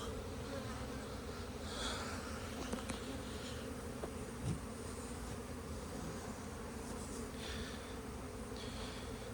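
Honey bees buzzing around the hives in a steady drone.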